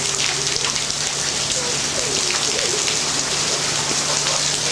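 Heavy tropical-storm rain pouring steadily. It makes a dense hiss of drops pattering on surfaces close by.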